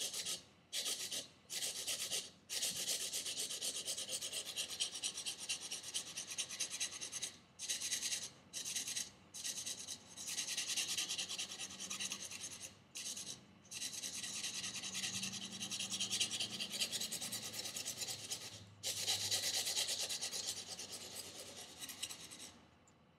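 Knife blade stroked edge-first across coarse-grit sandpaper backed by a leather strop: a dry, hissy scraping in long runs with several short pauses, stopping just before the end. The edge is being reprofiled to a stronger convex.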